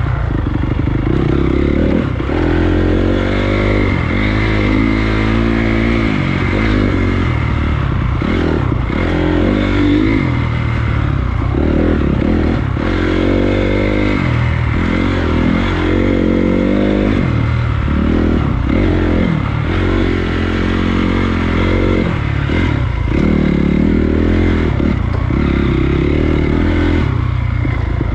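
Honda CRF250 dirt bike's single-cylinder four-stroke engine revving up and dropping back again and again as the throttle is worked on the trail, over a steady rushing noise.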